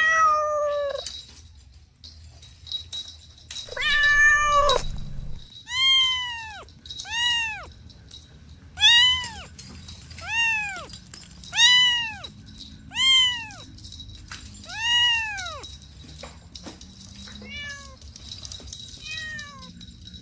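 Cat meowing repeatedly: two longer calls in the first few seconds, then about nine shorter meows, each rising and falling in pitch, about one every second or so, growing fainter near the end.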